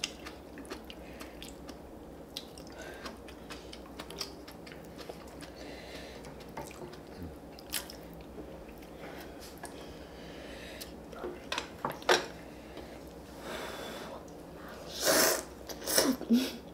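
Close-miked eating sounds of people eating spicy ramen noodles with side dishes: steady chewing with many small wet mouth clicks, and a couple of louder noisy bursts near the end.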